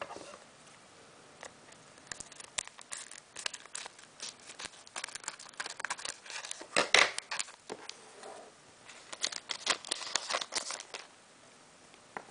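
Scissors cutting open a foil booster pack wrapper, with the foil crinkling and the cards rustling as they are handled, in quick irregular snips and rustles that are loudest about seven seconds in.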